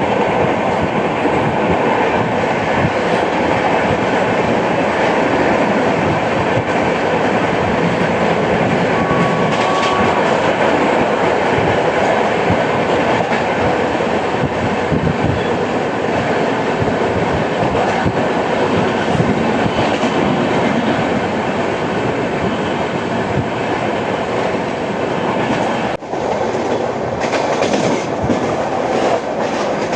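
Passenger train coaches of the 12810 Howrah–CSMT Mail running at speed, a steady loud rattle and clickety-clack of wheels on rail joints. The rhythmic wheel sound is the kind that comes from a flat spot on a wheel.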